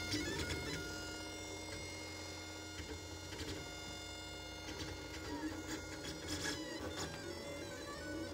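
Lulzbot Mini 3D printer running, its stepper motors giving a steady pitched whine that shifts pitch several times as the moves change, with a few faint clicks.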